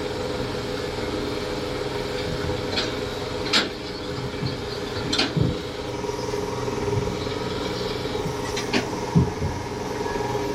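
Boat engine running at a steady pitch, with a few short sharp knocks about a third, half and four-fifths of the way through.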